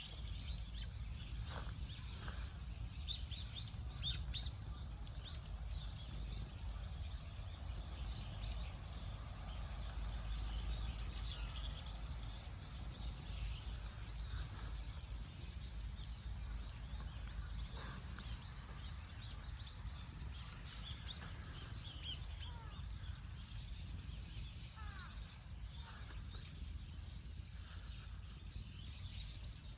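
Small birds chirping on and off throughout, over a steady low rumble.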